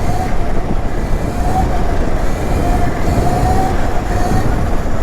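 Electric mini dirt bike being ridden: a steady, slightly wavering motor whine over a heavy low rumble of wind and tyres on the helmet microphone.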